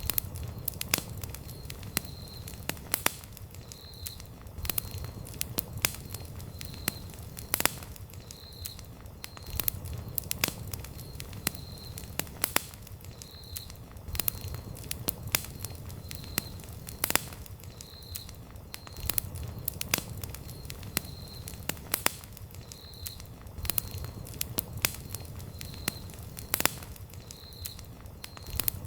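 Campfire burning wood, crackling with irregular sharp pops and snaps over a steady low rumble of the flames. A faint high chirp repeats about every second and a half.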